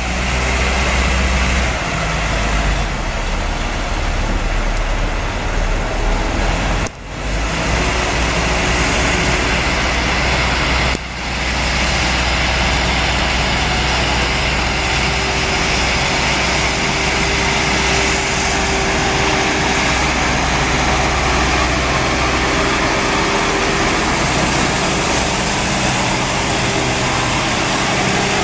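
Truck engine and road noise, running steadily while hauling a generator. It drops out briefly twice.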